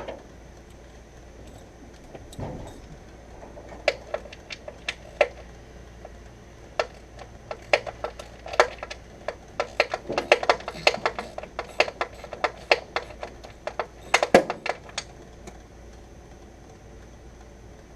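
Irregular clicks and light metallic clinks of hand tools and parts being handled on the engine, with no engine running. They come thickest in the middle of the stretch, then die away.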